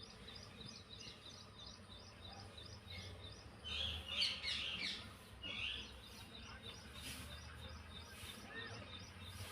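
Small birds calling: one high chirp repeated about four times a second, with a louder, busier burst of calls from about four to six seconds in.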